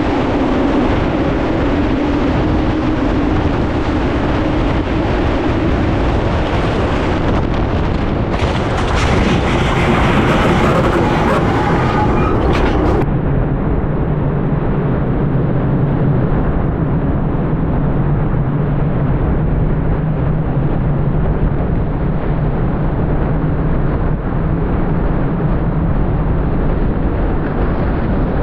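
Steady roar of gale-force wind driven by large fans over a full-scale test house, with a low fan hum underneath. Between about 8 and 13 seconds the noise turns brighter and hissier, then changes abruptly and the hum settles lower.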